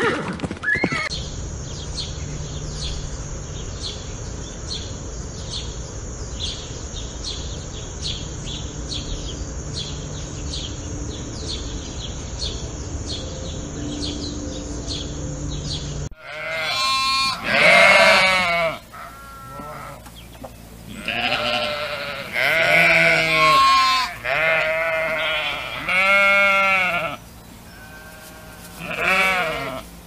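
A sparrow chirping over and over, about two short high chirps a second, against a steady hiss. About halfway through it cuts to a sheep bleating repeatedly, in wavering, quavering calls.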